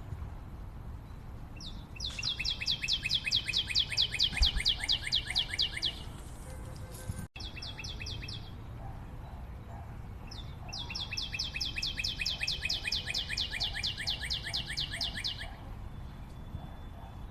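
A songbird singing long, even trills of rapid high notes, about six a second, with a short burst between them. The audio drops out for an instant between the first trill and the short burst.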